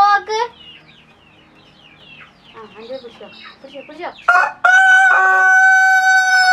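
Domestic rooster crowing: a short loud call at the very start, then faint scattered high chirps, then from about four seconds in a long loud crow held on one steady pitch.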